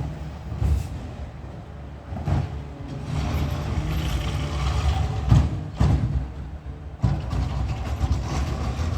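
Peterbilt 520 garbage truck's diesel engine running, growing louder about three seconds in, with several sharp knocks along the way.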